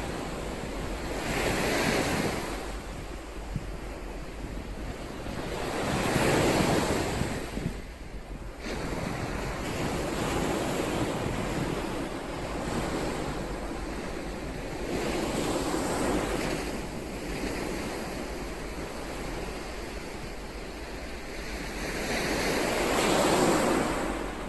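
Ocean waves breaking, the surf rushing in and swelling then falling back about every four to six seconds, the loudest surge near the end.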